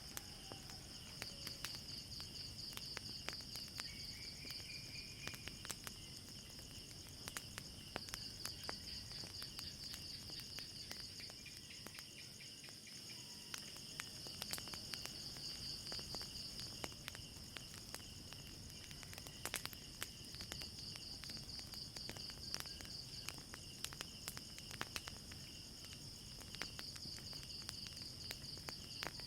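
Crickets chirping steadily in a high, pulsing chorus, with frequent sharp crackles and pops from a burning wood fire.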